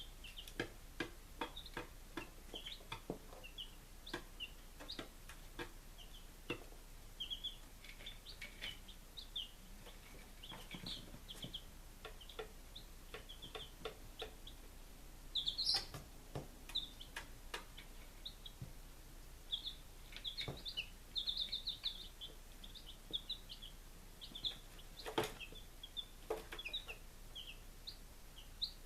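Baby chicks peeping: many short, high peeps in quick runs, with a louder flurry about halfway through. Scattered light clicks and taps run among them.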